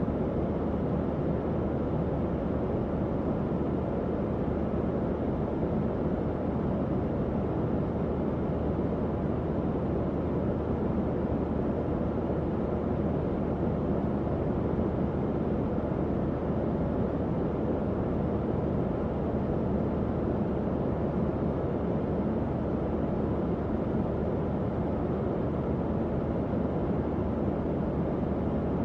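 Tower fan running steadily: an even, low-pitched rush of moving air with a faint motor hum underneath.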